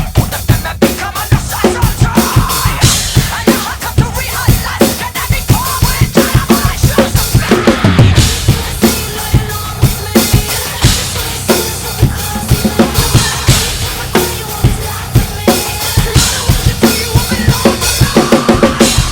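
Drum kit played hard along to the recorded song: rapid bass drum hits under snare and cymbal strikes, over the band's heavy music.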